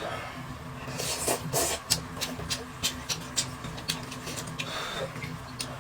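Eating sounds at a table: a run of sharp clicks and short scrapes, like utensils against dishes, busiest about a second in and thinning out after the middle, over a steady low hum.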